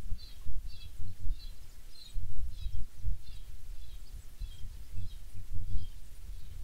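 A small bird chirping over and over, short high chirps a bit under two a second that grow fainter towards the end, over louder irregular low rumbling bumps.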